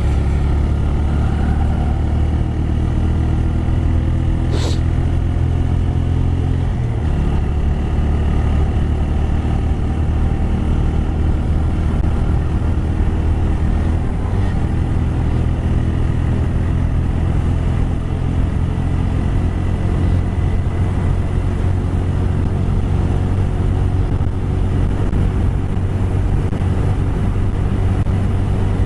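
TVS Raider 125's single-cylinder engine running steadily under way, heard from the rider's position over wind noise; the engine note shifts twice, about a quarter and about halfway through. A short sharp click about five seconds in.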